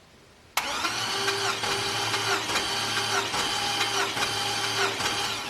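Starter motor cranking an LS V8 truck engine with its spark plugs out, turning it over without firing for a compression test. It kicks in suddenly about half a second in and whines steadily for about five seconds before stopping.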